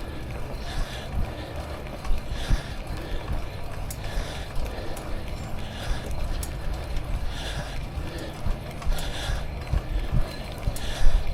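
Riding a bicycle: wind rumbling on the neck-mounted action camera's microphone, with soft hissing puffs about once a second.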